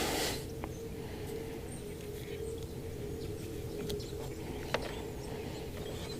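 Quiet workshop background: a steady low hum with a few light clicks of handling, one sharper click about three-quarters of the way through, and faint bird chirps.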